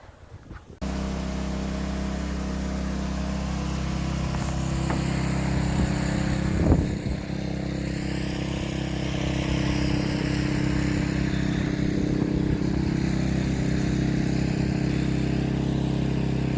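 An engine running steadily with an even low hum, cutting in abruptly about a second in, with a single sharp knock about seven seconds in.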